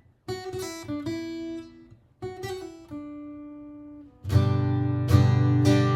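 Martin GPCPA4 acoustic-electric guitar playing chords: a few picked chords that ring and fade after a brief gap at the start, then louder strummed chords from about four seconds in.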